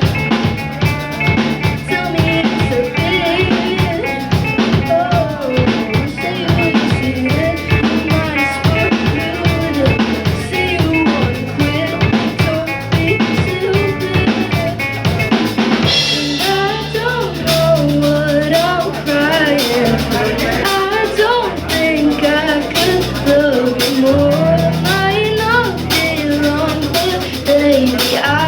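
Live band music: a drum kit keeps a steady beat under bass and a melodic lead line. About halfway through, the bass shifts to long held notes and the lead line grows busier.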